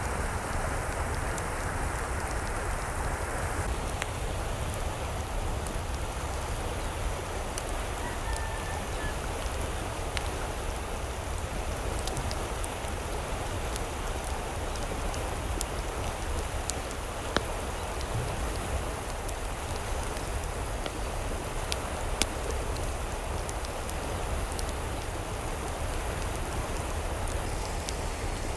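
Steady rain with scattered sharper drop clicks. A faint short bird call comes about eight seconds in.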